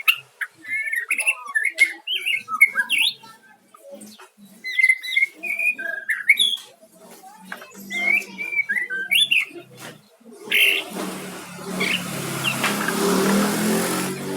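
White-rumped shama (murai batu) singing a fast, varied run of whistles and chirps. About ten seconds in, a louder steady noise with a low hum, like a passing engine, covers the song.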